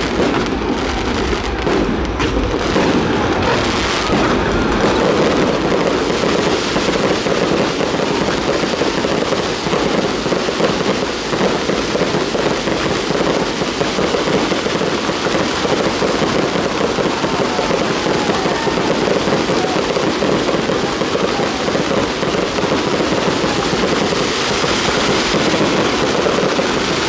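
Fireworks display going off continuously, a dense crackle of many small bangs running together without a break.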